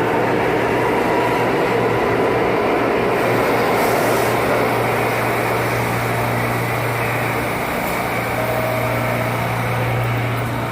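Steady mechanical hum and rush of a subway train standing in the station, with a strong low drone from its idling equipment and a few faint steady tones.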